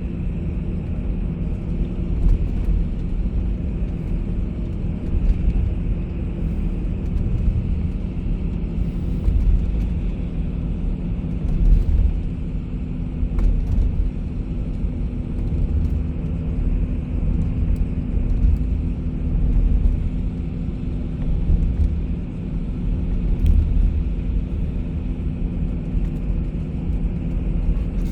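Bus engine drone and road rumble while the bus drives on: a steady low hum with small swells in loudness and occasional faint rattles.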